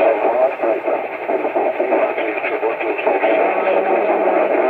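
CB radio speaker playing garbled voices from distant stations, overlapping and muddied with static. A low steady tone comes in about three seconds in.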